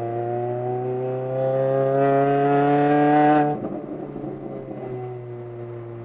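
A MINI Cooper's engine, heard from inside the caged cabin, revving up under acceleration with a slowly rising note for about three and a half seconds, then dropping off abruptly to a lower, quieter note.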